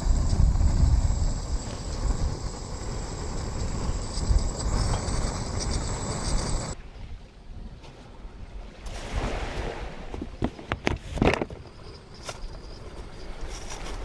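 Wind buffeting the microphone over surf, a loud low rumble that cuts off abruptly about seven seconds in. After it, a quieter outdoor background with a quick run of sharp clicks and knocks.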